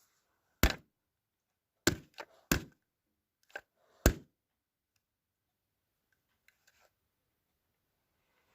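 A handful of sharp knocks and clunks, about six in the first four seconds, with quiet between them.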